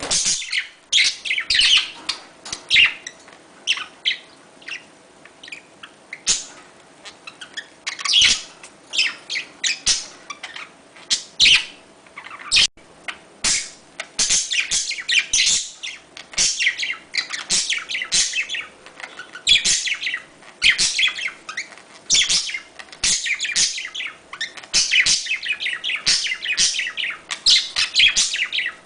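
Budgerigars chattering: a dense, fast run of high chirps and warbles with hardly a pause.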